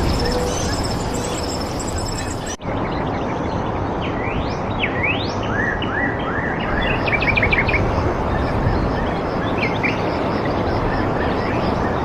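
Several birds chirping and calling, with short rising whistles and a quick run of repeated notes, over a steady rushing background noise. An abrupt cut about two and a half seconds in briefly drops the sound.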